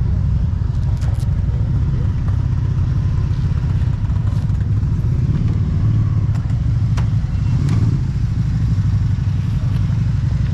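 Motorcycle engine running steadily with a low rumble, with a few light clicks over it.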